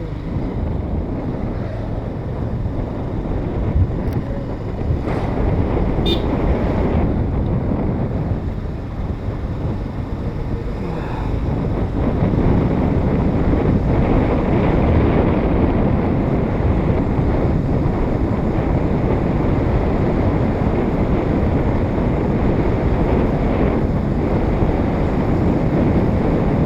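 Wind rushing over the microphone of a moving motorcycle, with engine and road noise underneath. It grows louder about twelve seconds in.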